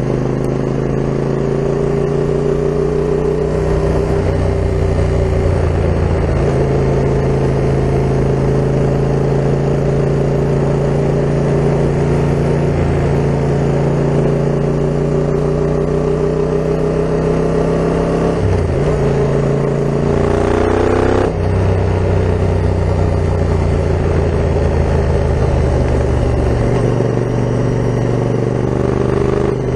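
Yamaha MT-07's parallel-twin engine running through an Akrapovic full carbon exhaust while riding, holding a steady pitch with gentle rises. About two-thirds of the way through it revs up and then breaks off sharply with a gear change before settling back to steady running.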